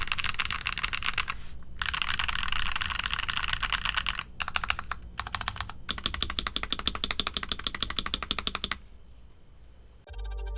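Typing on a Nuphy Halo65 65% mechanical keyboard with linear switches: fast runs of keystroke clicks in bursts with brief pauses, trailing off after about nine seconds. Music comes in near the end.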